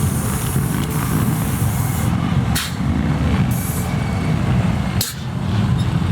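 A car's engine rumbling at low speed as it rolls in, with two short sharp clicks and a brief hiss between them.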